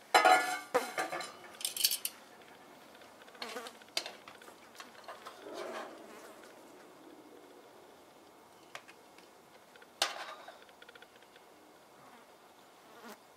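Metal tongs clattering and scraping against a nonstick frying pan as seared salmon fillets are lifted out, loudest in the first couple of seconds. A few sharp clicks follow, with one clack near the end, and a faint buzz in the middle.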